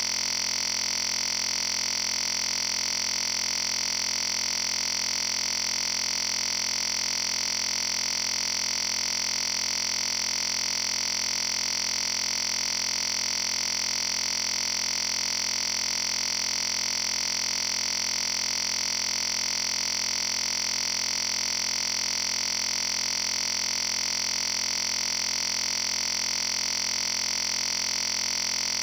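Steady, unchanging electronic static with a high-pitched hiss that does not vary at all.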